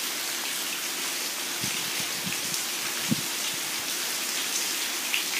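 Steady rain falling, an even hiss, with a few soft low knocks from about a second and a half in to a little past the middle.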